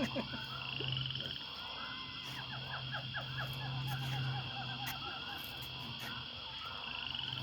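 Outdoor background of a steady high insect-like drone over a low steady hum, with a run of quick, repeated chirping calls about two seconds in.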